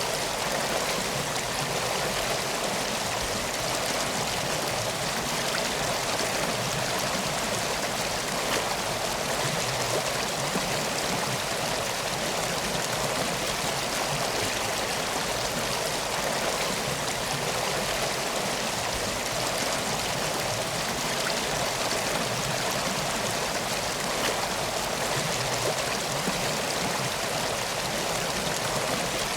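A river flowing, an even, unchanging rush of water.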